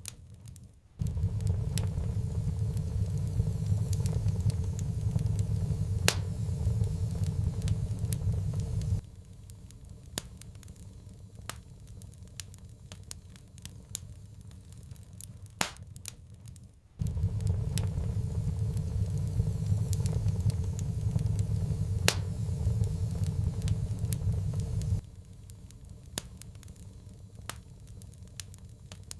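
Wood fire crackling with scattered sharp pops. A low rumble starts abruptly twice, about a second in and again about halfway through, and each time runs for about eight seconds before cutting off.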